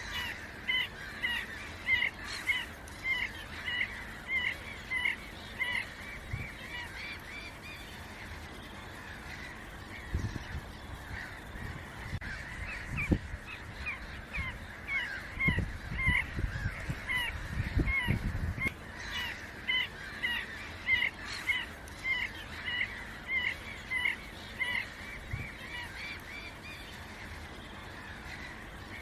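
Ducks calling: a run of short, harsh quacks, about two a second, easing off for a few seconds partway through and then picking up again. Some low thuds come midway.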